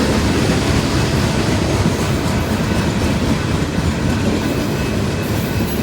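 Norfolk Southern freight train passing at close range: a steady, loud rumble of wheels rolling on the rails.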